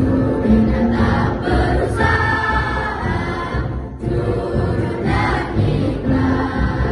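A school choir of young junior high students singing.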